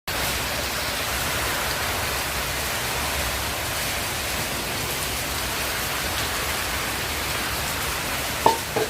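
Heavy typhoon rain pouring steadily. Near the end comes a short, sharp sound, louder than the rain.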